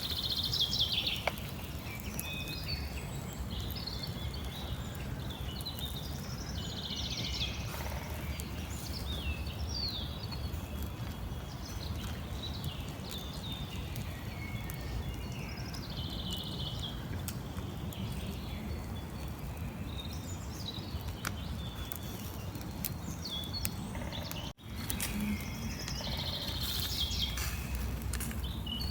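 Small birds chirping and calling on and off over a steady low background rumble. The sound drops out briefly near the end.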